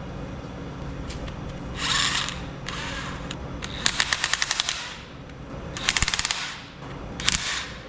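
Power wrench loosening the bolts of the front cover on a Detroit Diesel 3-53 engine: short bursts of hiss and two runs of rapid, even clicking, about a dozen a second, one about four seconds in and one about six seconds in.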